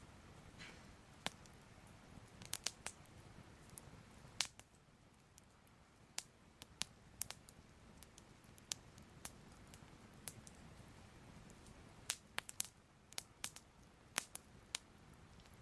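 Soft crackling fire: irregular sharp crackles and pops, unevenly spaced, over a faint low hiss.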